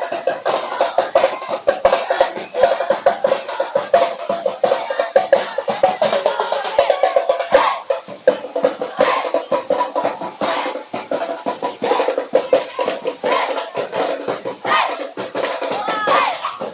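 Festival street-dance music: drums and other percussion beating a fast, dense rhythm under a sustained melody line.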